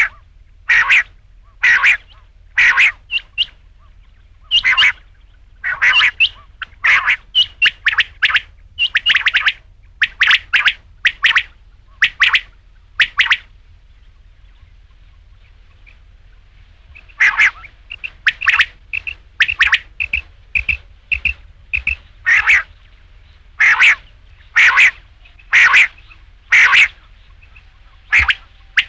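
Rain quail calling: short, sharp calls repeated about one or two a second, with a pause of a few seconds about halfway through.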